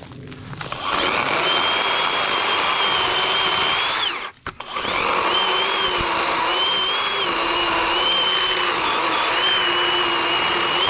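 Worx WG384.9 40-volt battery chainsaw running and cutting into a downed tree. Its electric motor whine dips and recovers under load. It stops briefly about four seconds in and then starts again.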